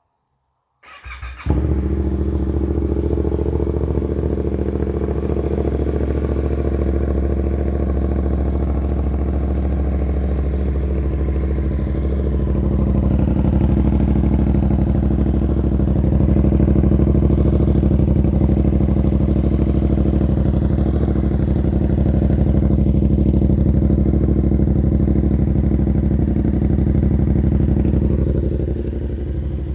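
Yamaha MT-07's 689 cc CP2 parallel-twin is cranked by its starter about a second in, catches, and idles steadily through an SC Project S1 exhaust with the dB killer removed, so the idle is loud and open.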